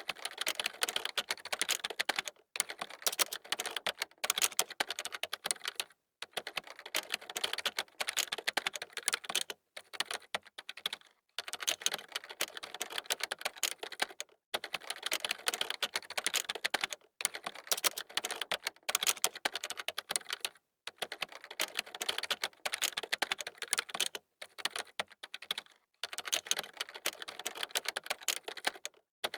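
Fast typing on a computer keyboard: rapid runs of key clicks in bursts of a few seconds, broken by short pauses.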